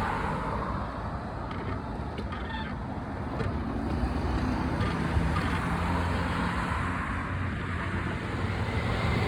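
Steady road traffic noise with wind rush on the microphone while riding a bicycle along a street, with a low vehicle engine hum.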